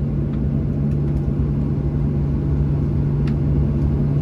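Steady low rumble with a constant droning hum inside a Boeing 737-700 passenger cabin, the aircraft's ground running noise before pushback. A faint click sounds about three seconds in.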